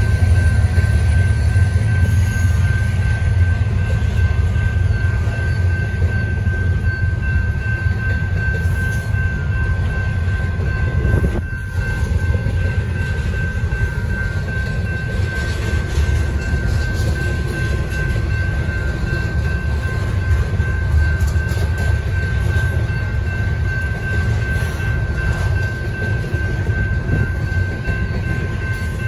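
Double-stack intermodal freight cars rolling past at a grade crossing: a loud, steady low rumble of wheels on rail, with a thin steady high-pitched ring above it.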